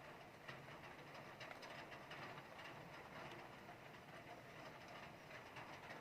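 Heavy rain falling steadily with wind, a low even hiss sprinkled with faint ticks of drops striking.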